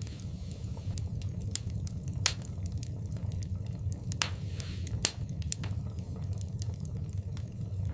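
Wood fire burning in a fireplace, with a steady low rumble and irregular sharp crackles and pops, the loudest about two seconds in and again about five seconds in.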